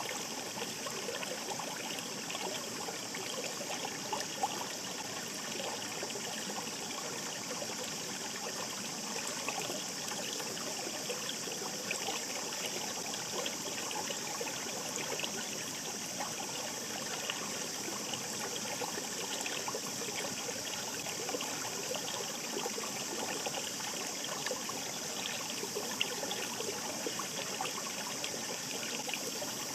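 Shallow mountain stream babbling steadily, a continuous rush and trickle of water with a few brief splashes.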